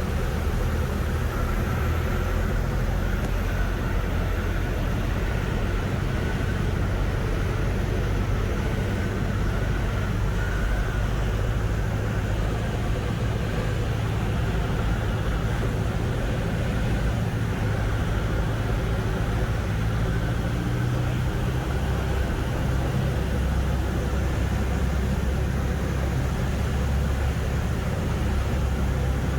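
Light training aircraft's piston engine droning steadily, with the rush of air over the airframe, heard from inside the cockpit. The engine note shifts slightly about two-thirds of the way through.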